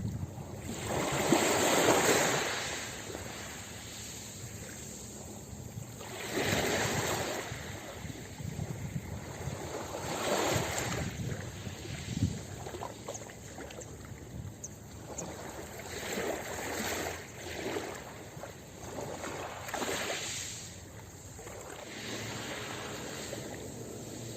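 Ocean waves breaking on a beach, rising and falling in surges about every four seconds, the biggest about two seconds in, with a softer wash between them.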